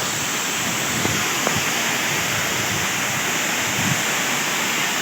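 Waterfall crashing steadily: a continuous hiss of falling water.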